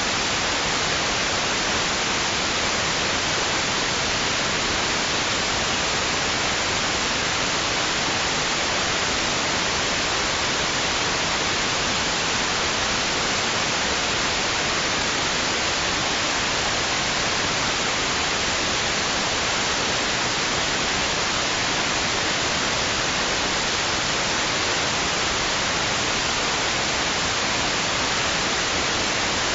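Steady white noise: an even, unchanging hiss that carries more treble than bass, with no swell or break anywhere.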